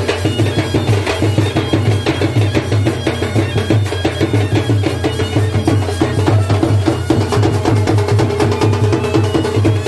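Traditional folk drumming: hand drums beaten in a fast, steady rhythm.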